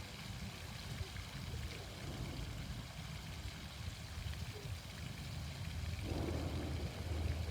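Outdoor fountain splashing steadily, with a low rumble underneath.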